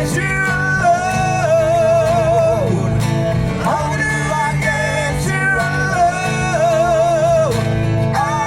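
Live acoustic music: acoustic guitar playing under a wavering melodic lead line, in two similar phrases.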